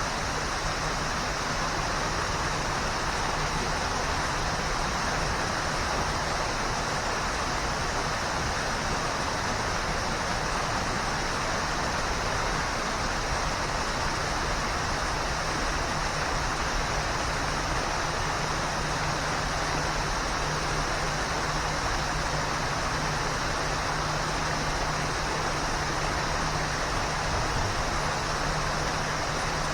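Waterfall pouring, a steady, unchanging rush of falling water.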